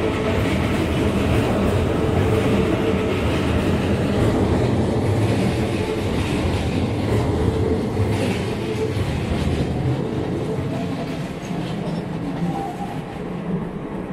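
Electric commuter trains running past on steel track: a steady rumble of wheels with rhythmic clacking over rail joints, fading over the last few seconds as they pass.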